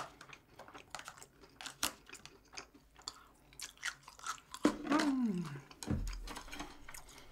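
Close-miked chewing of a mouthful of food: a run of wet clicks and light crunches. About five seconds in the eater gives a short hum that falls in pitch, and a low thump follows about a second later.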